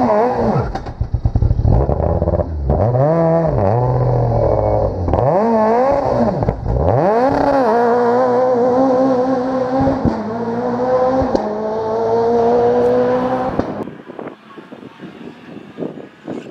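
Rally car engine working hard on a special stage: its pitch dips and climbs several times as the driver lifts and gets back on the throttle, then the car pulls through a gear with the pitch rising slowly. The engine sound drops away abruptly near the end, leaving much quieter noise.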